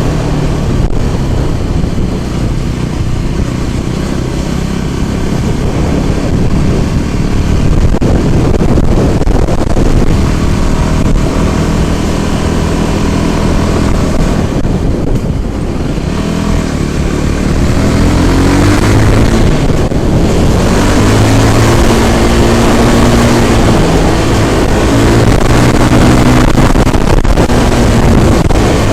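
A scooter's engine running under way, with wind noise on the microphone. In the second half its pitch repeatedly rises and falls as the throttle is opened and eased.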